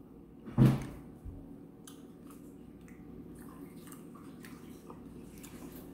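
Close-miked mouth sounds of a person chewing fried chicken, with faint scattered wet clicks. There is a short, loud thump about half a second in.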